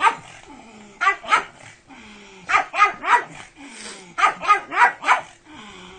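A pug barking excitedly in short, high, pitched barks, in quick clusters of two to four with brief pauses between them.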